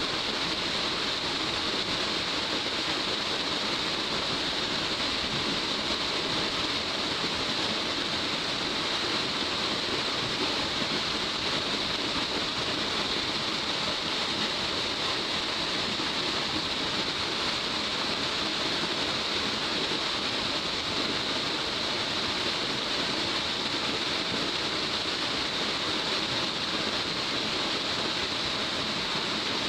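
Upper tier of Saruo Falls, a 39 m waterfall falling in several strands over angular rock, giving a steady, unbroken rush of water.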